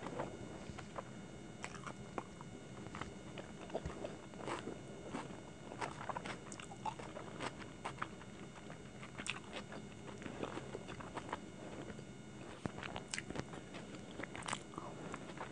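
Close-miked chewing and wet mouth sounds with many small irregular clicks as hakka noodles are chewed. Near the end there is a crisper bite into a fried chicken dumpling.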